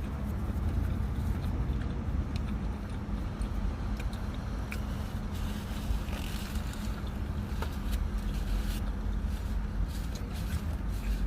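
Steady low rumble of a car heard from inside the cabin, with a few faint light clicks.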